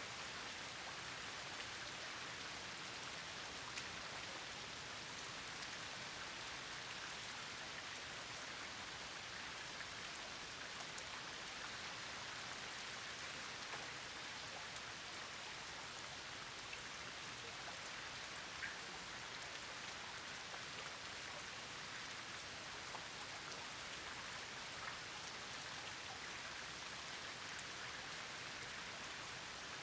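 Steady rain falling: an even hiss with individual drops ticking throughout, a couple of them louder, about four seconds in and a little past halfway.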